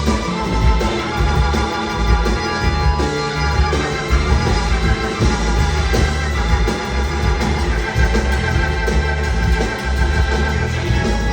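Live band music, an organ holding sustained chords prominently over a heavy bass line and drums.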